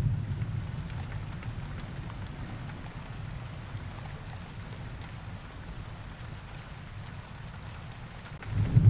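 Steady rain with thunder. A low rumble dies away over the first few seconds, and a new roll of thunder rises sharply near the end.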